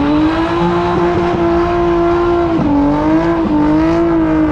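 Coupe's engine at full throttle accelerating away down the strip, its revs held high and steady, with brief dips in pitch at gear changes about two and a half and three and a half seconds in.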